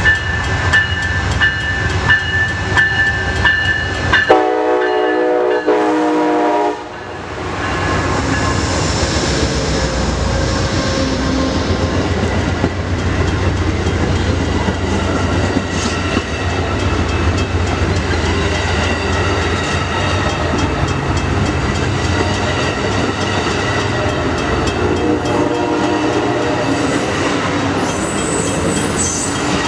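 A train horn blows for several seconds, changing to a different chord about four seconds in. It gives way to the steady rumble of a passing train, with regular clicking of wheels over rail joints.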